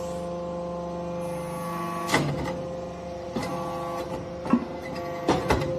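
Hydraulic brass-chip briquetting machine running: a steady machine hum with several short clanks about two, three and a half, four and a half, and five and a half seconds in.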